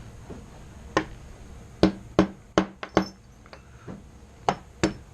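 Steel parts of a Colt AR-15 bolt carrier group clicking and knocking against each other as it is taken apart by hand, about ten sharp metallic taps with a short ring, the loudest a cluster in the middle.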